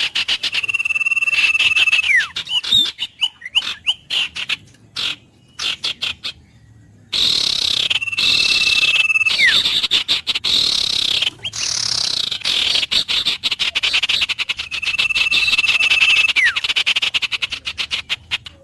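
Dense, rapidly pulsing animal calls with brief breaks, over which a bird gives a long whistle on one high note that glides sharply down at its end, three times.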